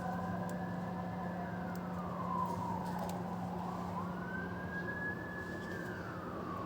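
Siren wailing: its pitch climbs, holds high, then falls slowly, twice, over a steady low hum.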